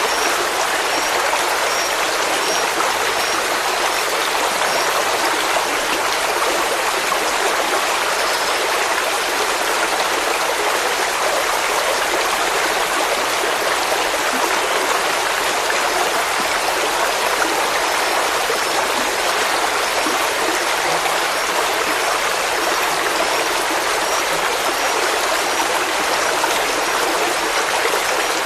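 Stream water running steadily, an even rushing sound with no breaks.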